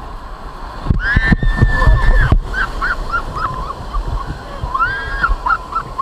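River rapids sloshing and splashing around a raft, loudest about a second in, with people yelling high-pitched calls over the water: one long yell, then several short shouts.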